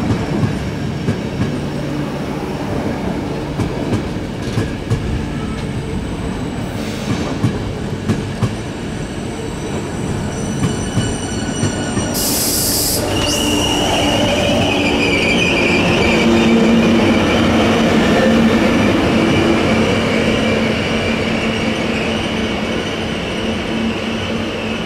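Intercity train pulling into the station: wheels clicking over the track, a short hiss about halfway, then wheels squealing, loudest a few seconds later.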